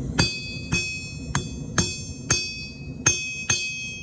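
Hand hammer striking forged iron over a sharp corner to cut the piece in half without a hot cut chisel: about seven blows in quick succession, each leaving a high metallic ring.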